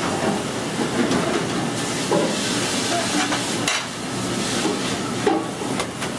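Pasta and sauce sizzling in a pan on the stove as it is stirred, with several sharp clinks and knocks of utensils against the pan.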